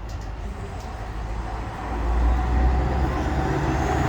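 A vehicle's low rumble that grows louder about halfway through.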